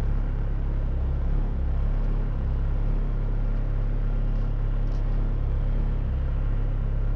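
Car engine idling while the car waits at the kerb, a steady low rumble heard from inside the cabin, with other cars passing close by.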